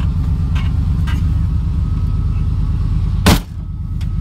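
A vehicle engine idling with a steady low rumble. A single sharp knock comes about three seconds in, after which the rumble briefly quietens.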